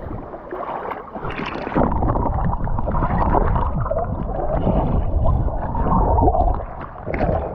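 Seawater sloshing and gurgling around a camera held by a swimmer floating at the surface, with a heavy low rumble that builds about two seconds in and eases near the end.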